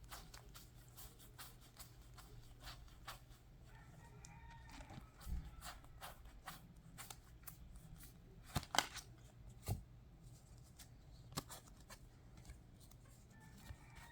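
Quiet handling of trading cards: scattered soft clicks and rustles of cards and plastic sleeves being picked up and set down, with a couple of sharper clicks past the middle.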